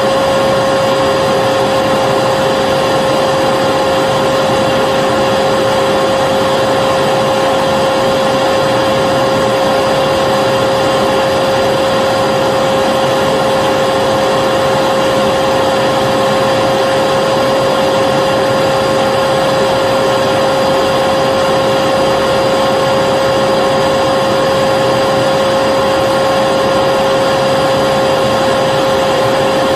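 Vacuum cleaner motor running steadily, a constant rushing hiss with a steady whine.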